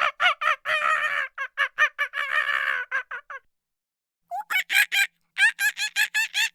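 Farm poultry calling in a rapid run of short pitched calls, about five a second, with longer drawn-out calls about one and two seconds in; the calls stop for about a second midway, then resume.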